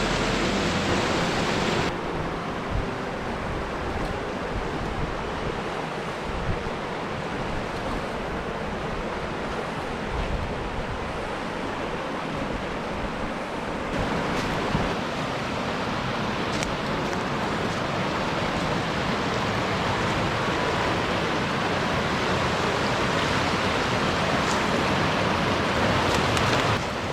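Steady rushing of falling water, a continuous hiss-like roar that shifts abruptly in tone about two seconds in and again near the middle.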